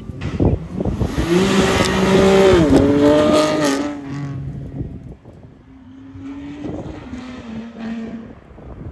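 BMW M2 accelerating hard away, its engine note rising, dropping with an upshift just under three seconds in, climbing again and then fading. A fainter engine note follows near the end.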